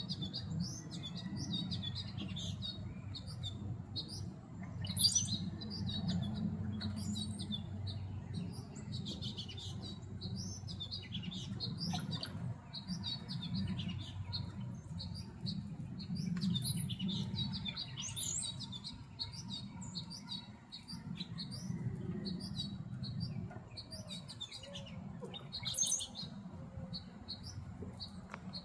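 Many small songbirds chirping and twittering, short calls overlapping throughout, over a steady low background rumble.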